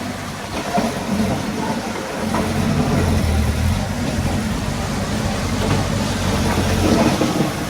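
Diesel engine of heavy earthmoving equipment running steadily, growing louder with a stronger low hum about two seconds in.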